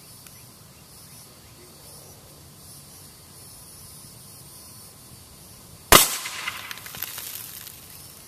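A single suppressed gunshot about six seconds in, its report echoing away over a second or two, after a stretch of quiet outdoor background.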